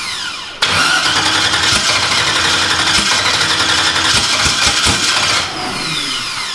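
Newly installed race car engine on its first start-up: it catches about half a second in and runs loudly for about five seconds, then dies with a falling whine as it spins down. It will not stay running on its own.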